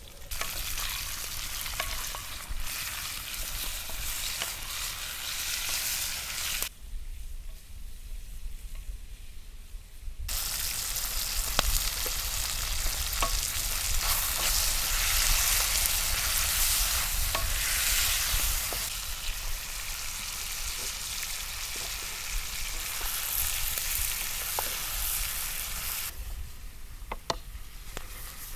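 Food frying in hot oil in a pan over a campfire, a steady sizzle that falls away for a few seconds twice, with small crackles and pops.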